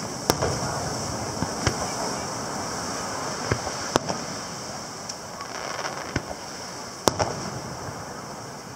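Distant aerial firework shells bursting: a handful of sharp bangs spread over several seconds, the loudest just after the start, about four seconds in and about seven seconds in, over a steady background hiss.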